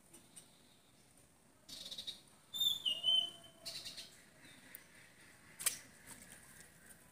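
A bird calls outdoors: a quick run of short, falling whistled notes about two and a half seconds in. Patches of soft rustling come just before and after it, and there is one brief sharp click near the end.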